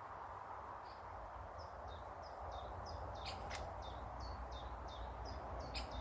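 A small bird calling: a steady run of short, high notes, each dropping in pitch, about three a second, starting about a second in. A few sharp clicks come mid-way and near the end, over a steady low rumble.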